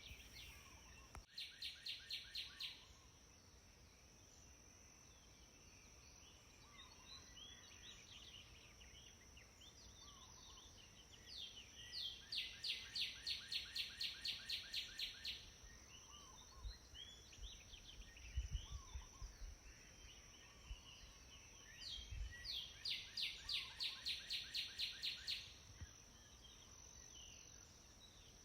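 Outdoor birdsong: a bird repeats a series of evenly spaced high notes, about four a second, in three bouts (a short one near the start, longer ones in the middle and near the end), with faint scattered chirps from other birds and a steady thin high tone behind.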